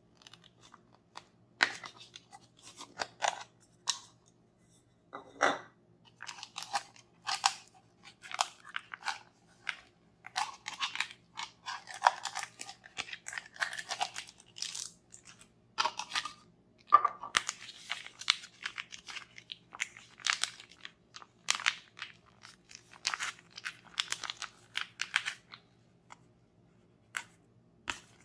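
Close-miked hands working toy-unboxing materials: irregular crisp crunches and rustles, in clusters with short pauses between.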